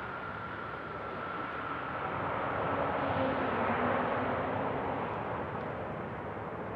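Business jet engines passing close by, their noise swelling to a peak about halfway through and then easing, with a high whine that slowly falls in pitch.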